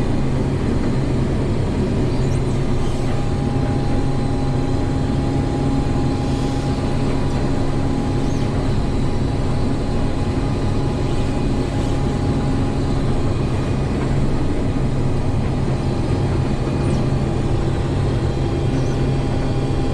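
Case 2144 combine running steadily while harvesting wheat: an even engine and threshing drone with a thin, steady whine over it.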